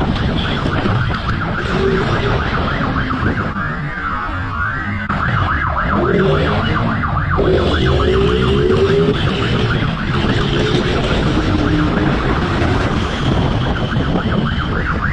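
Emergency vehicle sirens sounding over steady road vehicle noise, the siren pitch wavering up and down.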